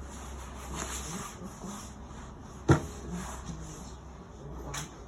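Handling noises: a sharp knock about halfway through and a lighter click near the end, with faint rubbing between them and a low hum that stops about a second in.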